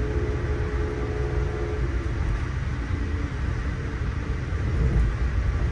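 Amtrak passenger train running on the rails: a steady, heavy low rumble with wheel and track noise, and faint steady tones that come and go.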